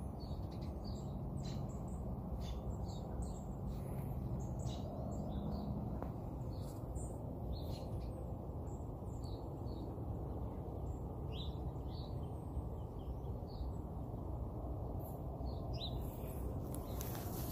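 Small birds chirping, with short high calls scattered throughout over a steady low outdoor rumble. A brief rush of hiss comes near the end.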